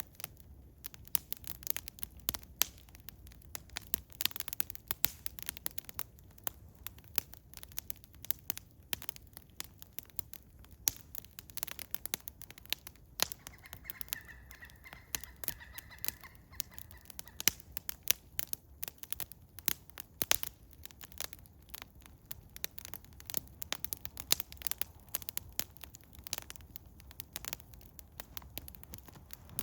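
Eastern hemlock wood fire crackling, with irregular sharp pops and snaps. A faint high whistle-like tone runs for about four seconds around the middle.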